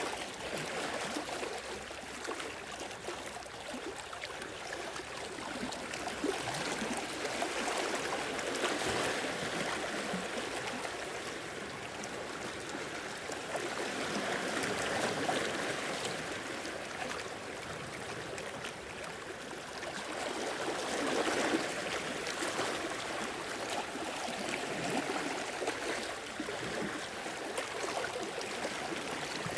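Sea waves washing in and draining back over the shore, a steady wash that swells gently about every six seconds.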